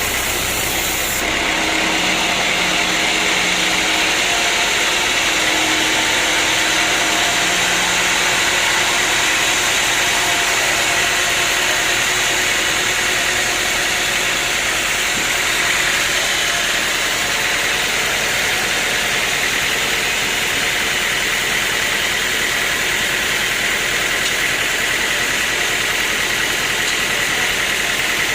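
Sawmill machinery running steadily, with an engine-like drone and a held high whine, and a slight change in the sound about a second in.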